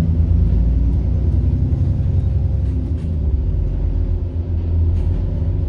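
Diesel engine of a single-deck service bus running under way, heard from inside the bus: a steady low rumble with a faint steady whine over it, which the bus is known for as turbo whine.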